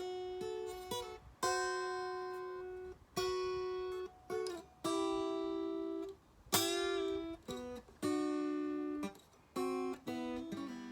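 Acoustic guitar playing a slow blues introduction: about eight notes and chords plucked one at a time, each left to ring and fade, the first sliding up into pitch.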